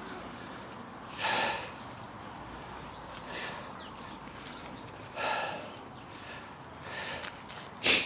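A person breathing heavily, with a loud breath about every two seconds. The last breath, near the end, is the loudest and sharpest.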